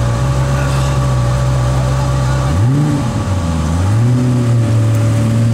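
Koenigsegg CC8S's supercharged V8 engine idling steadily, then blipped about halfway through: the revs jump up and fall back, then rise again and hold at a higher engine speed.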